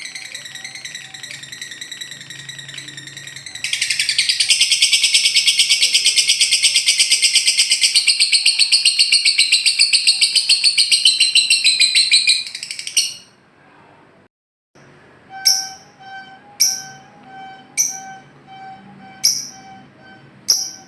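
Recorded lovebird song: a loud, very rapid trill that runs for about nine seconds, the long chattering 'ngekek' call. After a brief break come sharp single chirps about once a second over a steady tone.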